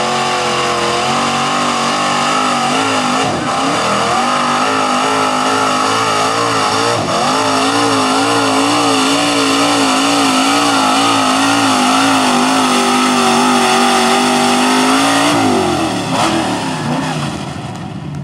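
A four-wheel-drive pulling truck's engine held at high revs under load while it drags the weight sled, its pitch wavering up and down. About fifteen seconds in, the revs fall away as the throttle comes off.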